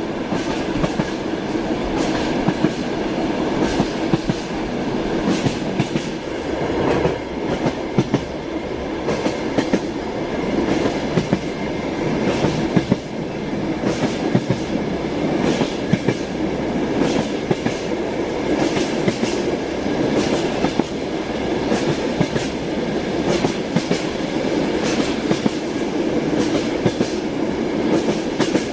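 Train wheels clacking over rail joints on top of a steady running rumble, heard from inside a moving train. The clacks come often and unevenly.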